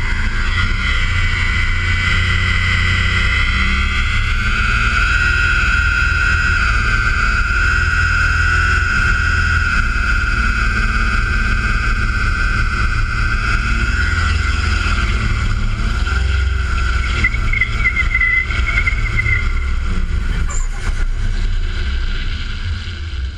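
Turbocharged RB30DET straight-six in a Holden VL held at high revs through a burnout, the rear tyres spinning in place. The engine note holds steady for many seconds, then the revs drop near the end.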